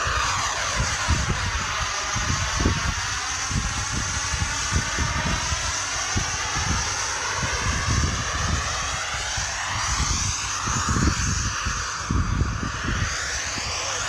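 Aircraft engine noise with a whine that sweeps down and back up, as from a plane passing overhead, with wind buffeting the microphone throughout.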